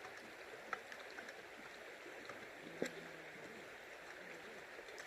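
Faint, steady rush of running river water, with a few light clicks, the sharpest about three seconds in.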